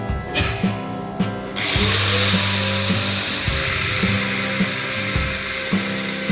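A power tool starts about a second and a half in, its pitch rising as it spins up, then runs steadily under background music with a steady beat.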